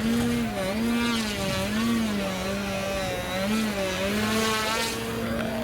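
Radio-controlled model aircraft engine running in flight, a steady note whose pitch rises and falls about once a second as the model maneuvers.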